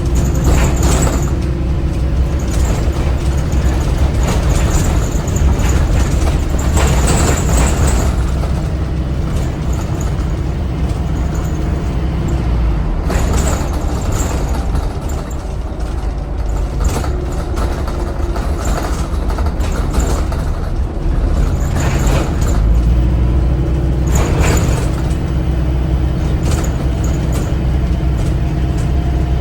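ADL Enviro 400 MMC hybrid double-decker bus on the move: the Cummins ISBe 4.5-litre diesel engine and drivetrain running with a steady low rumble. Brief hisses come every few seconds, typical of air-brake releases.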